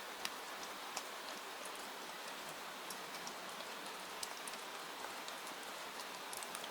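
Steady rain hiss, with many small sharp ticks scattered through it.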